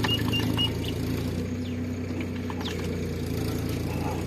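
Diesel engine idling steadily, with a brief high-pitched chirp in the first second.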